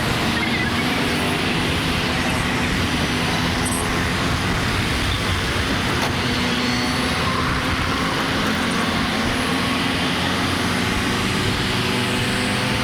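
Steady riding noise from a motorcycle on the road: engine hum under wind rumble on the microphone, with traffic around.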